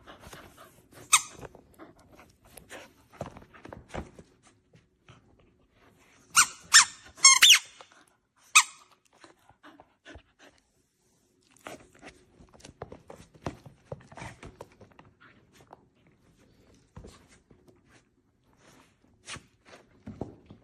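A dog chewing a Carllg squeaky rubber chew toy: a run of clicks and crunches of teeth on the toy, with a few sharp squeaks from it, a cluster of them about six to eight seconds in.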